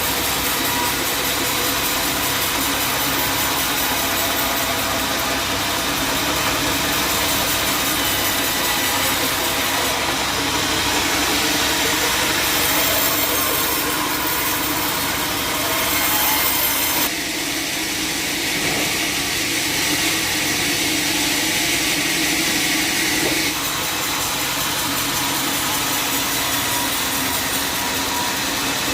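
A sawmill saw cutting through a log, running steadily and loudly. The cutting sound thins in its middle range for several seconds past the midpoint, then returns to its full level.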